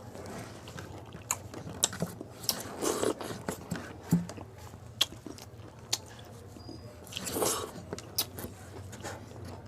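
A person biting and chewing crisp pani puri close to the microphone: a run of sharp, irregular crunches, with two longer noisy swells of mouth sound about three seconds and seven and a half seconds in.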